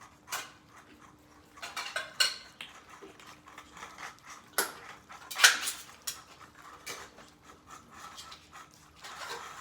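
Metal utensil clinking and scraping against a dish as wet cat food is mixed and dished out, in scattered knocks with one louder clatter about five and a half seconds in.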